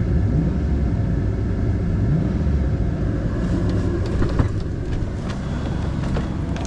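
Truck engine idling steadily, left running to warm up in the cold, with a few light knocks about four seconds in.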